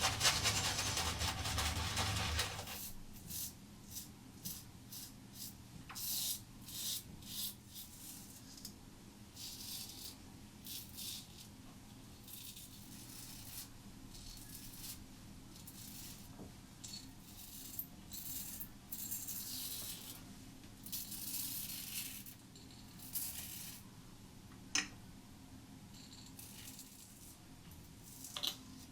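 Merkur 30C double-edge safety razor with a Gillette Silver Blue blade scraping lathered stubble in short, scratchy strokes on a second pass across the grain. A louder steady rushing noise fills the first two seconds or so.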